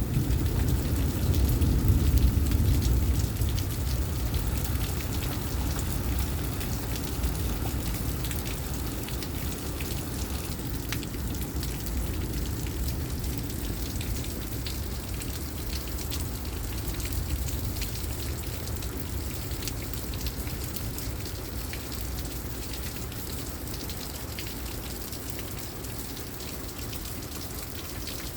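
Heavy thunderstorm rain, a steady hiss with many fine drop ticks, slowly growing quieter. A low rumble of thunder dies away over the first few seconds.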